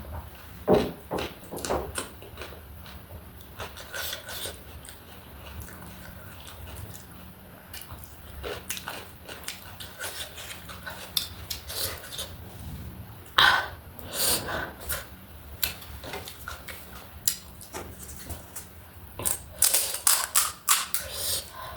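Close-up eating sounds: crisp bites, crunching and chewing with irregular mouth clicks, a few louder crunches about thirteen seconds in and again near the end.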